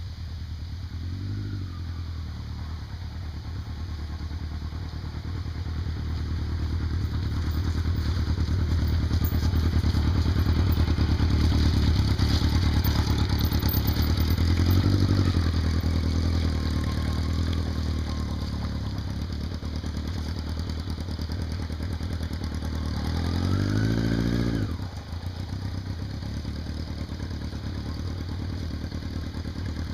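Vehicle engine running under load, with a brief rev a second or two in and another around the middle, where it is loudest. Near the end it climbs in a longer rev and then drops off sharply.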